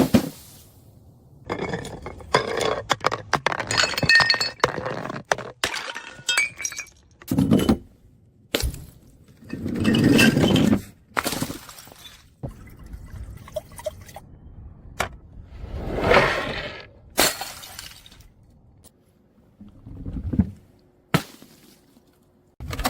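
Glass bottles breaking and being crushed: sharp cracks, clinking shards and crunching grinding of broken glass, coming in several separate bursts.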